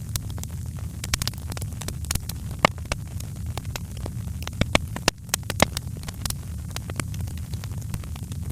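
Wood fire crackling: irregular sharp pops and snaps over a steady low rumble, with a cluster of louder pops a little past halfway.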